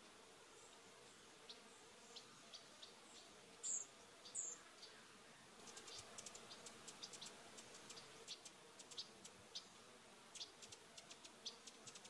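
Small birds giving short, high, thin chip calls. The chips are sparse at first, two louder calls come about a third of the way in, and a quicker run of chips fills the second half.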